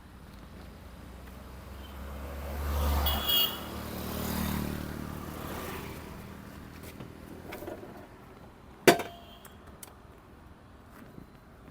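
A vehicle passing, rising and then fading over a few seconds, with a single sharp click near the end.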